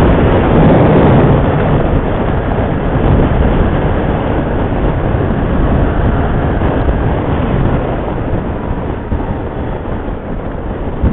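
Motorcycle riding noise: wind rush and engine and road noise on the bike's microphone, gradually getting quieter.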